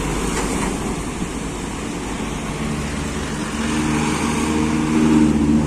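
Passing road traffic with tyre and road noise, then the low, steady engine note of a heavy diesel truck growing louder as it comes closer over the last couple of seconds.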